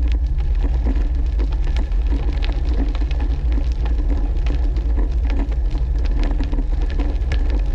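Brompton folding bike being ridden along a canal towpath: a steady low rumble of wind buffeting the microphone, with a dense crackle and rattle of the tyres and bike over the path surface.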